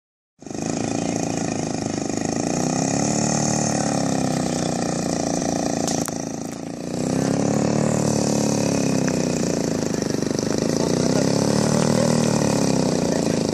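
DLA 112cc two-stroke gasoline engine of a large-scale RC Cessna 182 model running steadily, its pitch swelling up and falling back three times.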